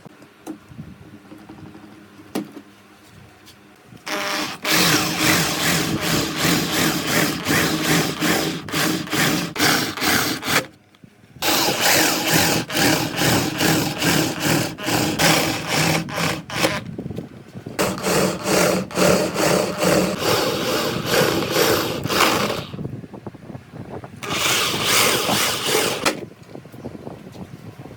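A woodworking tool cutting or working wood in quick repeated strokes, in four spells of several seconds each with short pauses between.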